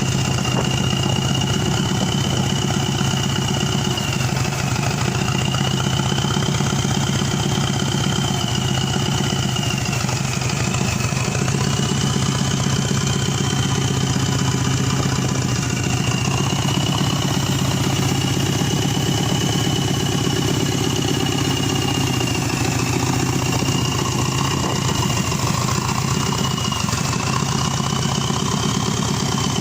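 Subaru EJ255 2.5-litre turbo flat-four engine idling steadily on a stand, with a thin high whine that dips slightly in pitch every few seconds.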